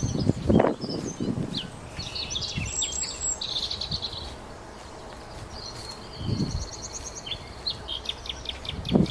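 Small birds chirping and twittering in quick high notes and short trills, with a few dull low thumps among them.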